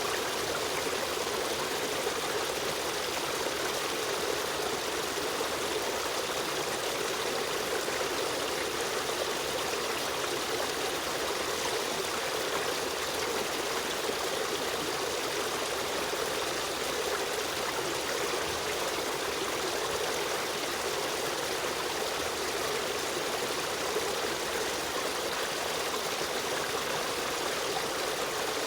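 Steady rush of a river stream running over rocks, an even trickling flow with no changes.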